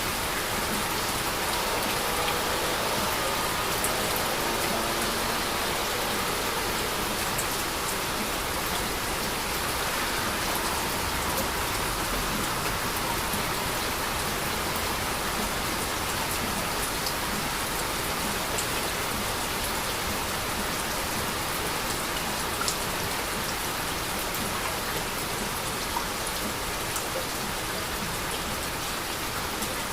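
Heavy rain falling steadily, a continuous wash with scattered individual drop ticks.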